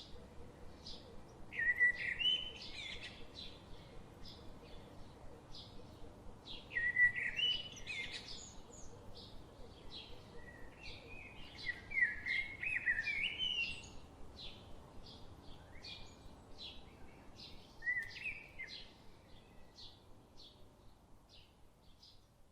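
A sparrow chirping: four short bursts of quick chirps, with a steady run of single short chirps between them that fades away near the end.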